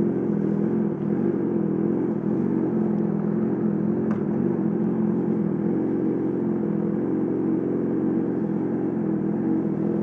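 A 2020 Yamaha R6's inline-four engine running at a steady speed through a full M4 aftermarket exhaust system, with an even, unchanging exhaust note.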